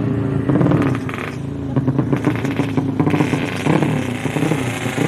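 Motorcycle engine revving, rough and pulsing, its pitch shifting up and down.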